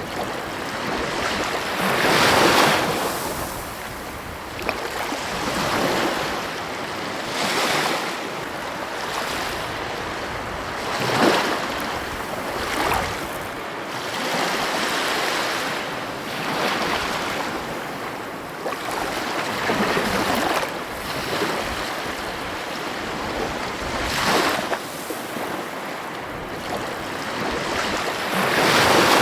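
Ocean surf breaking on a beach: a continuous wash of waves, with a louder surge every three to four seconds as each wave breaks.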